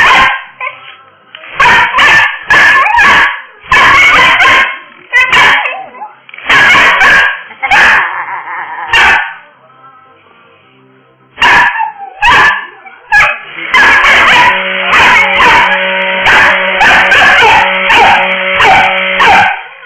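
Dog barking in loud, repeated bursts with yips and whines. It falls quiet briefly about halfway through, then barks almost continuously over a steady hum in the last six seconds.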